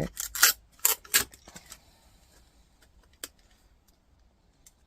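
Light clicks and clatter of the docking station's loose metal and plastic parts being handled and set down: a cluster of sharp knocks in the first second and a half, and one more tick a little after three seconds.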